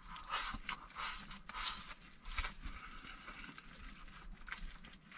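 A ventilation opening being adjusted by hand: a few short scraping and clicking noises, the strongest in the first two and a half seconds, then fainter handling noises.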